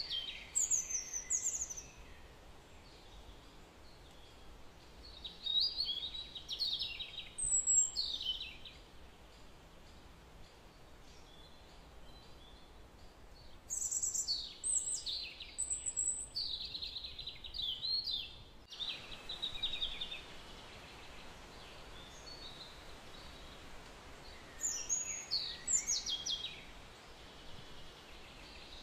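Birds singing: four short runs of quick, high chirps spaced several seconds apart, over a steady background hiss.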